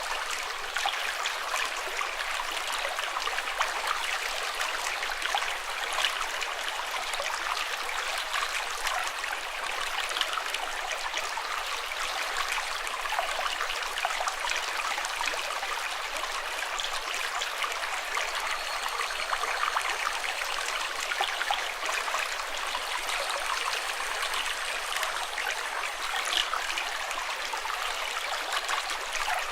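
Running water trickling and splashing steadily, as in a small stream, with a dense fine patter of little splashes and no deep rumble.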